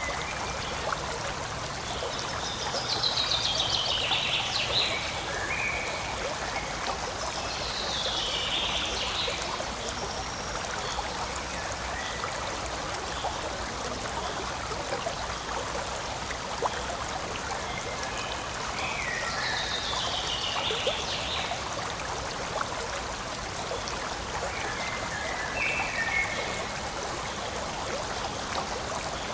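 A forest stream flowing and trickling steadily over stones, with a bird singing a short falling phrase four times.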